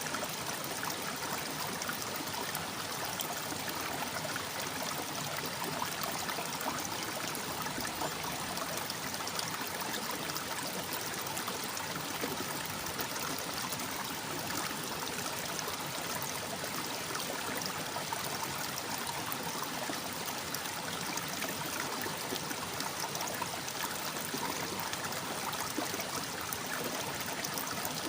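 Water running and babbling steadily, like a brook over stones.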